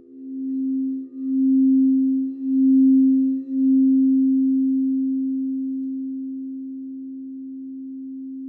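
Crystal singing bowl sounding one steady, pure tone. It swells and dips about once a second for the first few seconds, then slowly fades.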